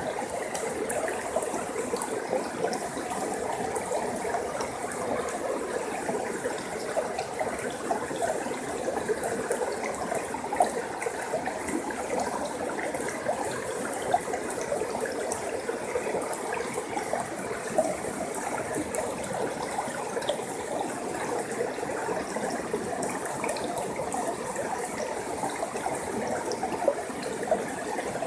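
A forest stream flowing steadily, water trickling and splashing over rocks, with the odd sharper splash.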